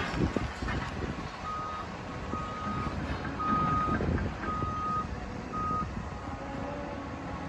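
Back-up alarm on heavy demolition equipment beeping five times, about once a second, while the machine reverses. Under it is the low running of diesel machinery with scattered knocks.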